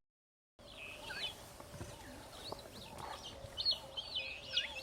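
Vulturine guineafowl calling: many short, high chirping calls repeated over and over, coming thicker and louder near the end, after a half-second of silence at the start.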